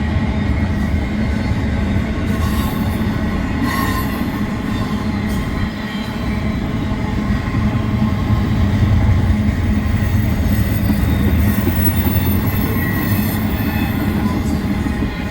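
Train rolling past close by: a steady, loud rumble of wheels on the rails, with a faint high wheel squeal over it.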